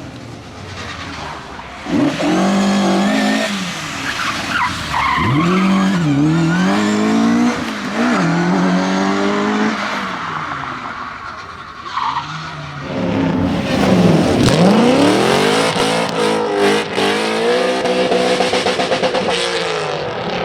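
Rally car engine revving hard through several gear changes, pitch climbing and dropping back with each shift, with tyres skidding and squealing. About 14 seconds in, a car passes close by at full throttle and its pitch drops sharply as it goes past.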